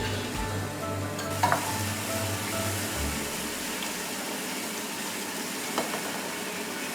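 Onion-tomato curry gravy sizzling in oil in a pot, a steady hiss that comes up about a second in, with a couple of sharp clinks of a utensil against the pot. The gravy has cooked down until the oil has separated.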